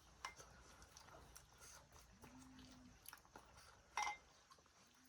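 Near silence with faint scattered clicks and ticks, and one brief sharper sound about four seconds in.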